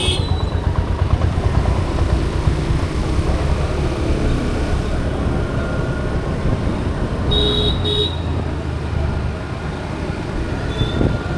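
Road traffic: a steady rumble of vehicle engines, with a vehicle horn tooting twice in quick succession about seven seconds in.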